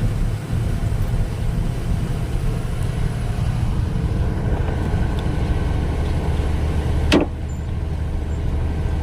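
Motor vehicle engine running with a steady low rumble, and a single sharp knock about seven seconds in.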